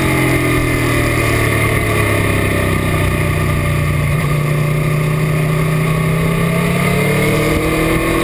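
Motorcycle V4 engine of a 2018 Aprilia Tuono V4 1100 RR, heard from onboard. Its revs fall over the first second or so, it runs steadily at low revs for several seconds, then the revs rise again near the end.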